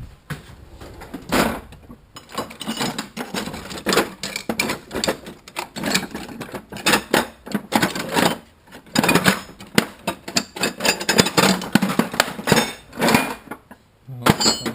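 Metal hand tools being rummaged through, clinking and clattering in rapid, irregular knocks.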